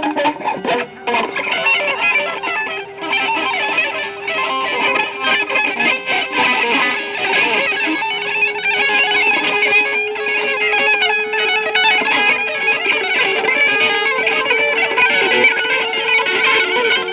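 Free improvised music for guitar played with objects and violin: a dense, scratchy texture of plucked and scraped sounds under one long held tone that slowly rises in pitch.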